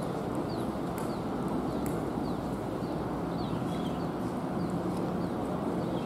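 Steady low background noise of an open-air ground with small birds chirping: short, falling, high chirps about twice a second.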